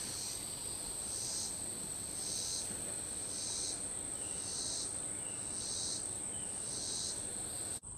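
Outdoor insect chorus: a steady high-pitched buzz with a second pulsing call that repeats about once a second, over a low background hiss.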